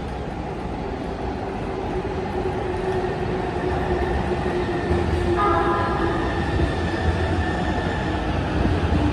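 Electric limited express train pulling into the platform and growing louder, with a whine slowly falling in pitch as it slows. A cluster of higher squealing tones joins about five and a half seconds in as it brakes.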